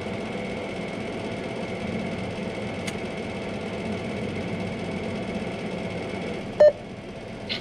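A car's engine idling steadily, heard from inside the cabin. Near the end, an ATM keypad gives one short, loud electronic beep as a key is pressed.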